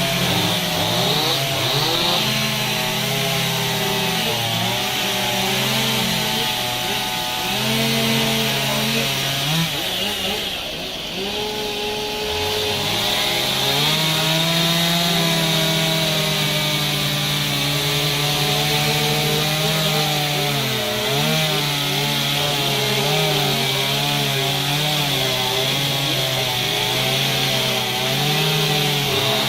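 Chainsaw cutting into wood during carving, its engine pitch rising and falling as the throttle and load change, with a brief easing of revs about ten seconds in.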